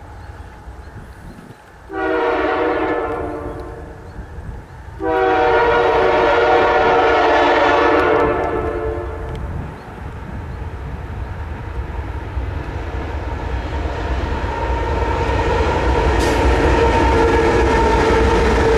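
CN ET44AC locomotive's multi-chime air horn sounding the end of a grade-crossing signal: a long blast trailing off, a short one, then a long one. After that comes the rising rumble and engine drone of the approaching train.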